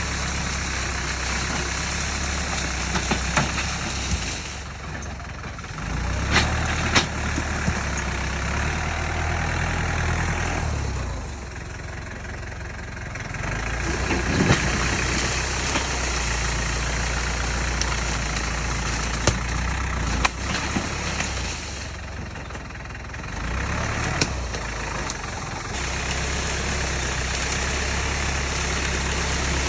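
Tractor engine running steadily with a low, even hum. It goes quieter for a few seconds three times, with a few sharp clicks or knocks along the way.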